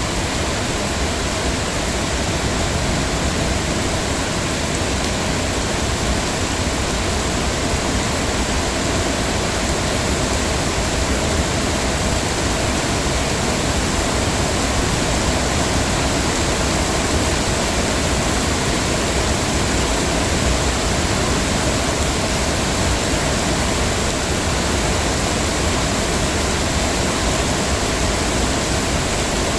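Heavy rain falling steadily, an even hiss with no single drops or other sounds standing out.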